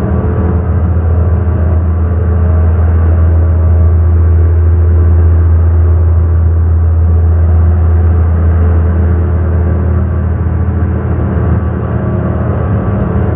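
Electronic ambient drone played on analog synthesizers: a loud, steady low drone with a few held higher tones and a haze of noise above it, swelling slightly in the middle.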